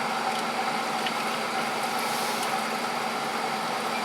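Steady machine hum running evenly throughout, with a few faint ticks over it.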